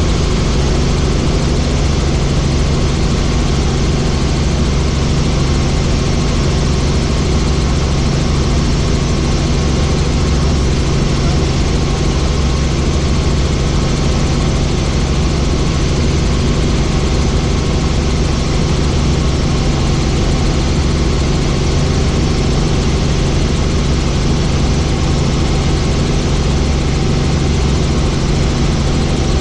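Helicopter in flight heard from on board: a loud, steady drone of engine and rotor, with a deep hum underneath.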